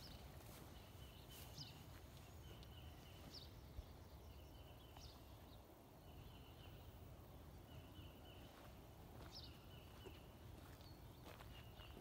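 Faint distant birdsong: a short, steady high note repeated every couple of seconds, with brief high chirps between, over a low background rumble.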